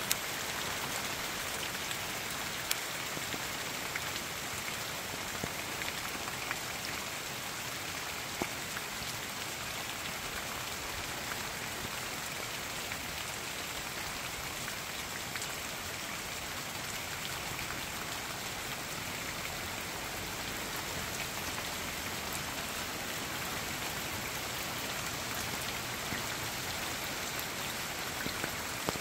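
Steady rainfall, an even hiss, with a few sharper drops ticking close by now and then.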